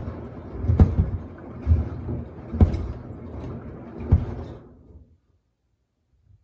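Samsung washer-dryer drum tumbling a load of sneakers: a low rumble with four heavy thuds a second or so apart as the shoes drop, then the drum stops about five seconds in.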